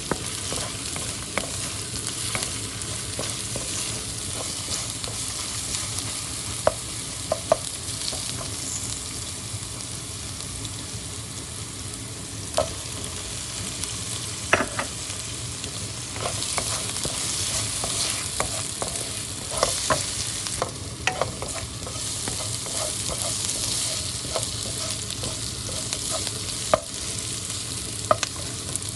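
Food sizzling as it fries in a pan while being stirred, with a utensil knocking against the pan every few seconds.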